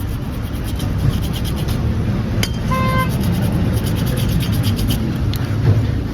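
Rubbing strokes of a part being polished by hand, over a steady low rumble. A short beep comes just under three seconds in.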